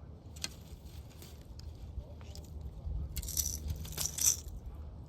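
Fishing tackle being handled: several sharp clicks, then a short burst of metallic rattling about three seconds in.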